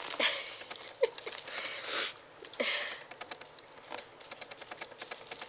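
Ragdoll kitten chewing and tearing at a wand toy: rapid small clicks with scratchy rustling, loudest about 2 s in and again just after.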